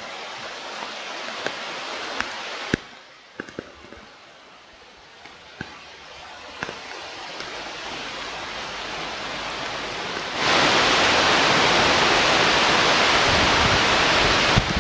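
Wind rushing over an outdoor webcam microphone, with scattered sharp clicks and knocks. The rush builds gradually, then about ten seconds in it jumps suddenly to a much louder, steady roar.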